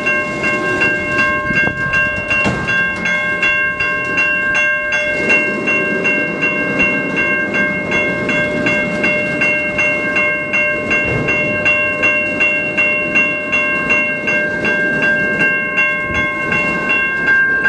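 Railroad crossing bell ringing in a steady, even rhythm while a freight train's cars roll slowly through the crossing with a low rumble and wheel clicks.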